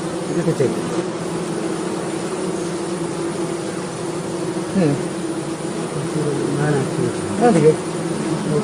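Stingless bees buzzing steadily as a cluster, with a few bees flying close past so the pitch slides up and down about five seconds in and again near the end.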